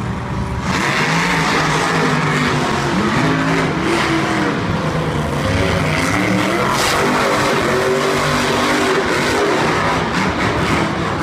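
Monster trucks racing, their engines revving hard with the pitch rising and falling over and over.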